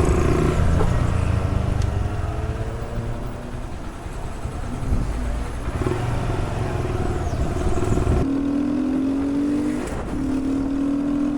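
Honda Grom mini bike's single-cylinder four-stroke engine running as the bike is ridden off, the revs rising and falling. About eight seconds in the sound changes abruptly to a steadier, higher drone.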